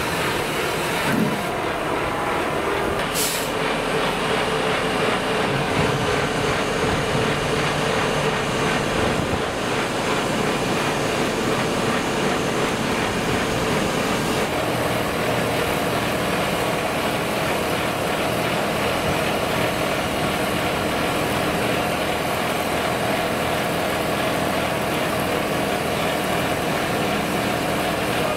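Heavy tractor engine and mobile wood chipper running steadily under load. There is a short hiss about three seconds in, and the machine hum shifts higher about fourteen seconds in.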